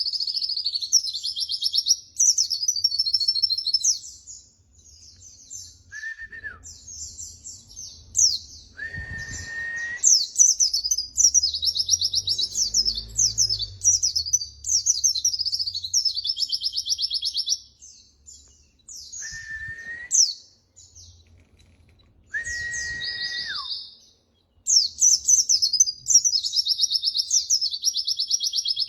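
White-eye (pleci) singing a rapid, high-pitched chattering warble in long bursts, with pauses about a quarter of the way in and again past two-thirds. A few short, clear, lower-pitched level whistles fall in the pauses.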